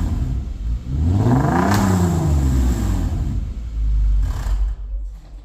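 Genesis EQ900's 3.8-litre V6 free-revved through a custom variable-valve exhaust: one rev climbing and falling back to idle about a second in, then a short blip near the end.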